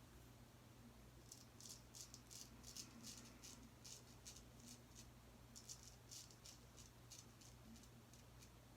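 Gold Dollar 208 straight razor shaving lathered stubble: faint, quick scraping strokes, a few a second, starting about a second in.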